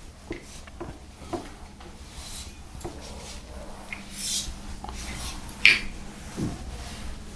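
Small handling noises: scattered light clicks and knocks with brief rubbing. One sharper click about six seconds in is the loudest.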